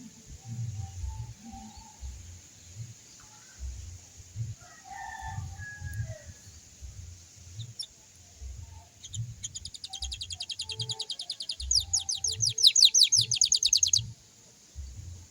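Canary singing a rapid trill of evenly repeated high notes, rising in loudness for about five seconds and stopping abruptly, preceded by faint scattered chirps.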